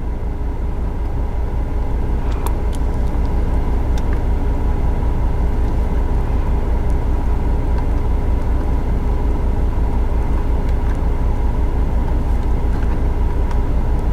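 Steady low rumble with a faint steady hum inside the cabin of a running 2018 Ford EcoSport SES, its loudness creeping up slowly over the first few seconds, with a few faint clicks.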